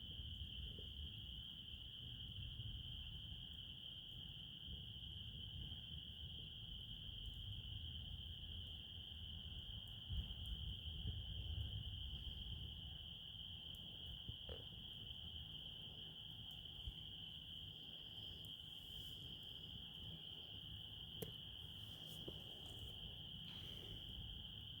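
Crickets trilling in one steady, unbroken high chorus, over a low rumble with a few faint clicks.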